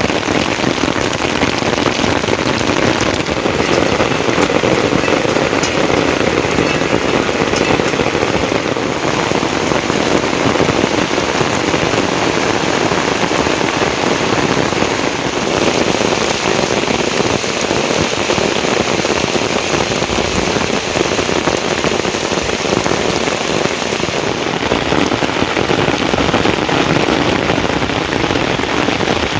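Steady rain falling, a dense, even hiss of drops that holds at a constant level.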